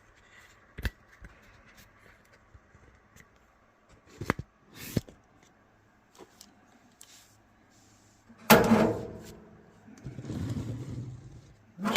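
Handling noises from a dryer being taken apart: a few light knocks, then near the end a sudden loud clunk that rings out for a second or so, followed by a scraping rumble as the dryer drum is shifted in the cabinet.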